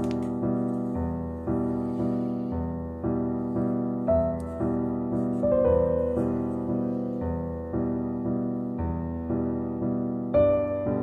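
Background piano music: gentle chords and melody notes struck about twice a second in a steady pulse.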